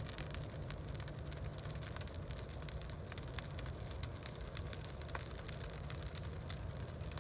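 Bonfire of stacked pine trees burning, with scattered sharp crackles and pops over a steady low rumble.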